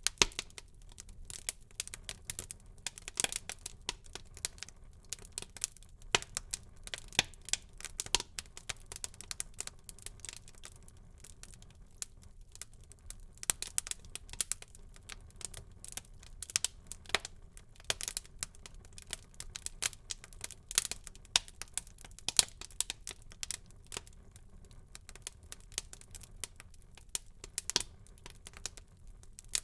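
Wood fire burning in a fireplace, crackling and popping: frequent sharp, irregular snaps over a faint low rumble of the flames.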